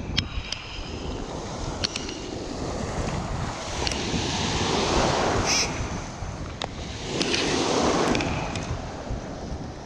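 Wind on the microphone, a steady low rumble, with two swelling rushes of noise like water washing in, one about halfway through and one near the end, and a few faint clicks.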